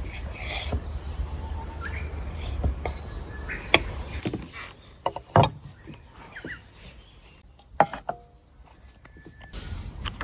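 Handling noises: a series of sharp knocks and clacks, the loudest about four, five and a half and eight seconds in, over a low rumble that fades out about halfway through.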